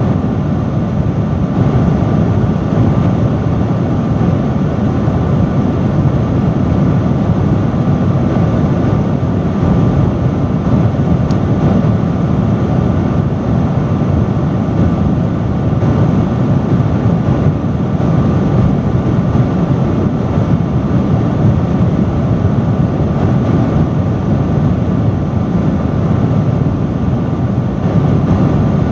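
Loud industrial fan running steadily, a constant deep rush of moving air with a faint steady hum riding on it.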